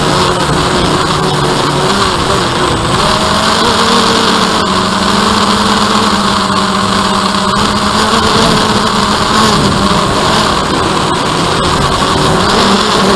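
DJI Phantom quadcopter's motors and propellers buzzing steadily, the pitch of the hum shifting slightly up and down as the motors adjust.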